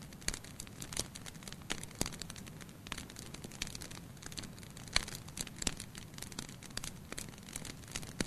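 Wood fire crackling in a fireplace: irregular sharp pops and snaps over a low steady rumble of burning, with one louder pop about five seconds in.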